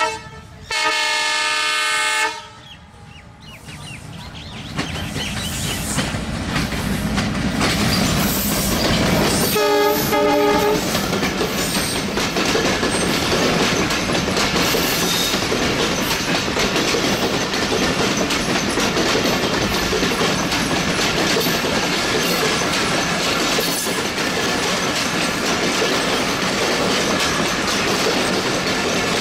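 Bangladesh Railway WDM-3A (ALCO) diesel locomotive sounding its horn, a long blast of about a second and a half, then the train's noise building as it approaches and a second, shorter horn blast about ten seconds in. The train then runs past close by with a steady clatter of coach wheels over the rail joints.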